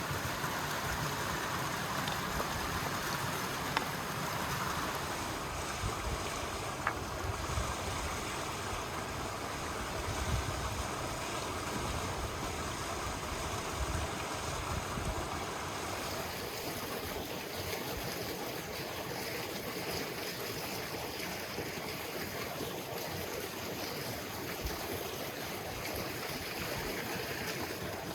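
A river rushing steadily, with gusts of wind buffeting the microphone. The rush turns thinner and hissier about halfway through.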